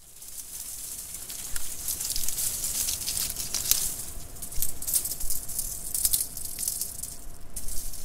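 Rain falling on a road: a dense hiss with a crackling patter of drops, fading in over the first couple of seconds.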